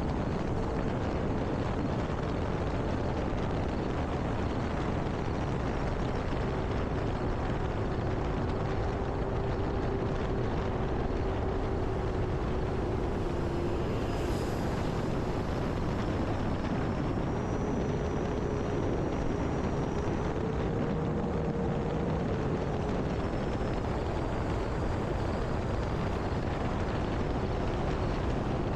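Electric motor and propeller of an E-Flite Air Tractor 1.5m RC plane in flight: a thin whine that drifts slowly up and down in pitch over a steady rush of wind noise.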